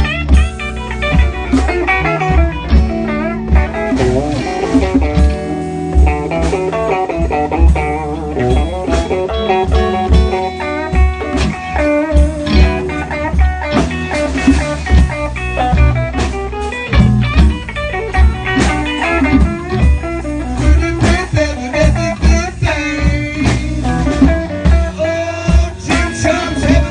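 Live blues band playing, with electric guitar lines over a steady bass and drum beat.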